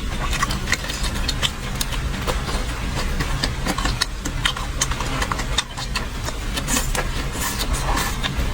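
Close-up eating sounds: many short, sharp clicks and smacks of chewing food, over a steady low mechanical hum.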